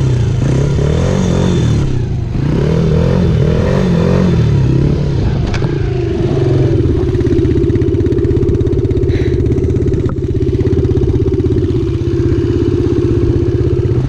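Dirt bike engine riding on a trail: it revs up and down with the throttle for several seconds, then holds a steady pitch from about six and a half seconds on.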